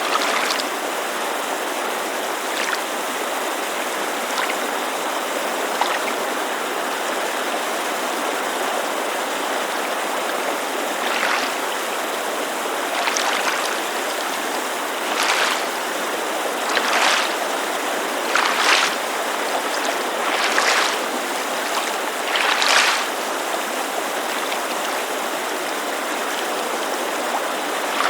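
Steady rushing of a creek layered with small waves lapping at a lakeshore. The laps come as soft slaps about every two seconds through the middle stretch.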